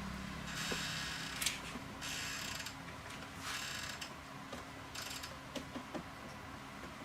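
Hand work on small fan parts: several short rasping or scraping strokes with light clicks of metal parts in between.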